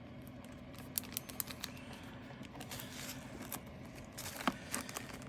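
Light, scattered plastic clicks and ticks from handling small diamond painting drill containers and leftover resin drills, over a faint steady hum.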